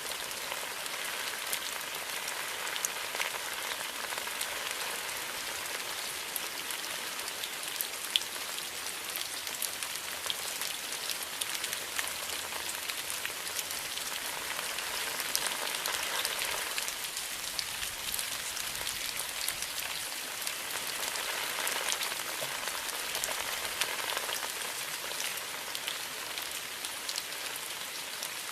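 Steady rainfall, an even hiss dotted with the ticks of individual drops, swelling a little about halfway through and again later, with one sharper drop tick about eight seconds in.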